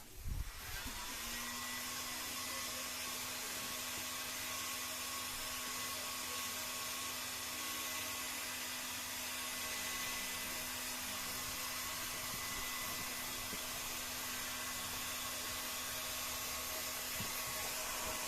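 Hot-air heat gun running steadily, an even blowing rush with a steady motor hum, switched on about half a second in.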